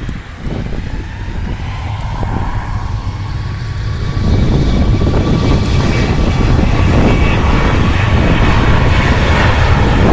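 Boeing 737 twin jet engines at takeoff power, a steady whine over a rumble that grows louder, jumping up sharply about four seconds in and staying loud.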